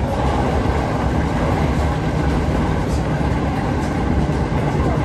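Steady running noise inside a moving passenger train: a low rumble of the wheels on the rails and the car's motion.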